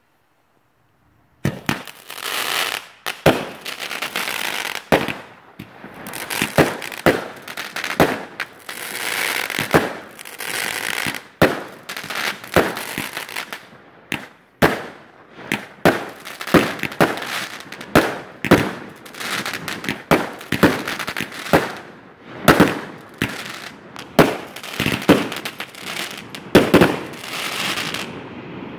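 Fireworks going off: a rapid, irregular string of sharp bangs with crackling between them. It starts suddenly about a second and a half in and stops near the end, leaving a fading hiss.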